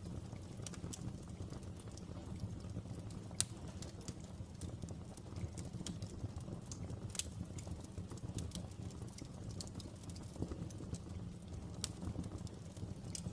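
Outdoor open fire burning: a low steady rumble with irregular crackles and a few sharper pops.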